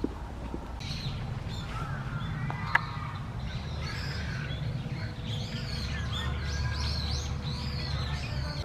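Small wild birds chirping and calling, many short overlapping chirps that thicken in the second half, over a steady low rumble. A single sharp tick comes about three seconds in.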